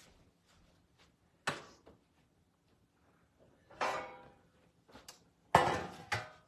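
Kitchen knocks and clatter, three times: a short knock about a second and a half in, then two louder clattering knocks with a brief ring, one near the middle and one near the end.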